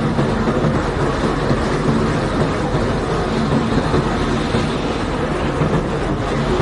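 A heavy unloading machine's engine running with a low hum under a steady rush and rattle of crushed limestone flowing off a barge.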